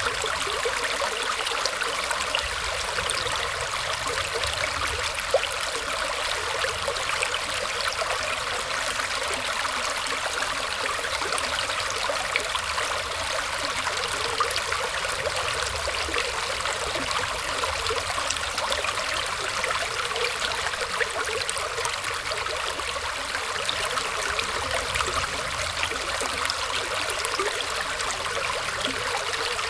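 Small stream of water flowing and trickling through tree roots: a steady, even rush with many tiny splashing ticks.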